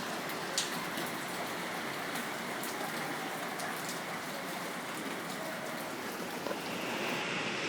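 Steady rain falling, with a few sharp drops tapping close by.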